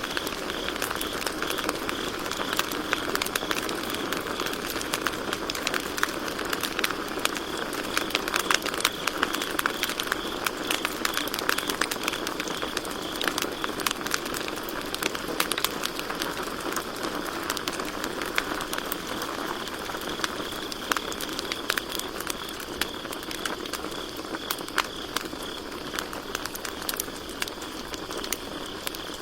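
Campfire crackling and popping, with many sharp snaps over a soft steady rush of the burning wood. Crickets chirp steadily behind it in one high, evenly pulsing trill.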